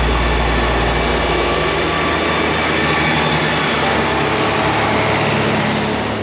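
Tractor engines running, a steady noisy drone. A deep low hum fades out over the first two seconds.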